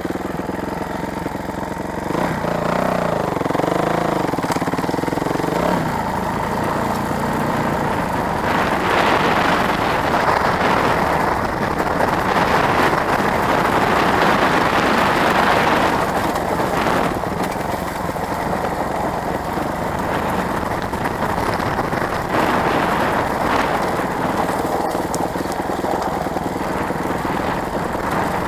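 Dirt bike engine running and revving up and down while riding, with a dense rushing noise over the microphone from about eight seconds in.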